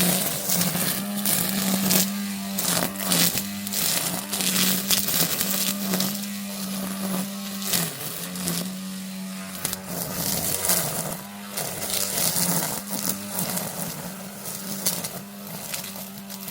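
Battery-powered grass trimmer running with a steady hum that dips briefly several times under load. Its cutting head makes rapid crackling hits as it tears through vegetation.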